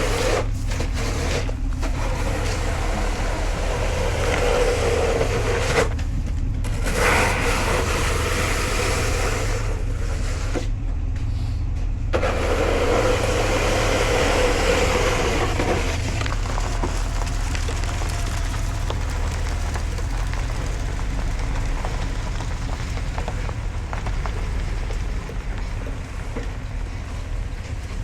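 A work vehicle's engine running steadily, with louder stretches of rushing noise through the first half.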